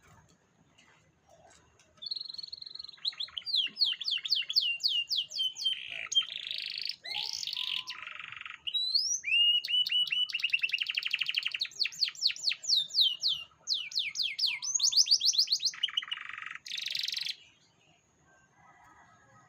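Canary singing a long song of fast trills and rapidly repeated downward-sweeping notes, starting about two seconds in and breaking off near the end.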